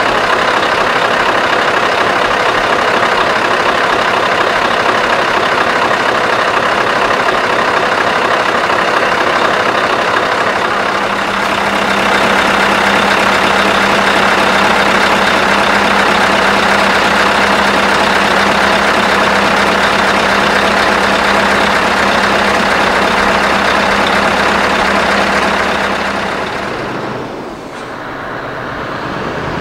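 Scania R500 V8 truck engine running loud and steady through straight vertical exhaust stacks. About 11 s in, its note deepens with a steady low hum. Near the end it briefly drops away and then swells back.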